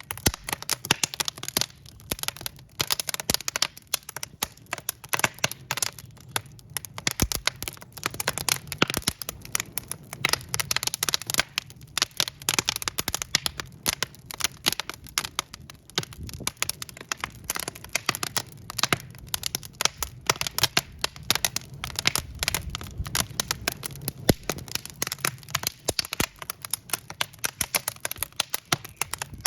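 Wood fire of burning logs crackling: dense, irregular sharp pops and snaps over a low, steady rumble of flame.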